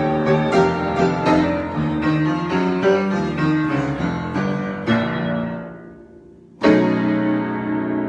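Solo piano improvisation: a run of notes that thins out and fades, then a loud chord struck near the end and left ringing.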